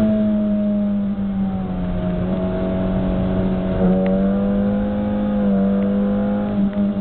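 Car engine heard from inside the cabin while driving, a steady drone. About four seconds in, its pitch dips briefly and then climbs slowly as the car pulls again.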